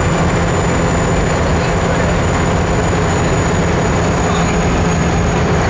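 Steady drone of a moving vehicle, engine and road noise, with a constant low hum and no change in pitch or loudness.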